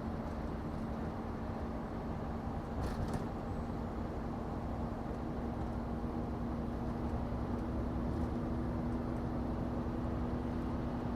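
Scania truck engine running steadily at cruising speed with road noise, heard from inside the cab, with a steady low hum throughout. A brief knock about three seconds in.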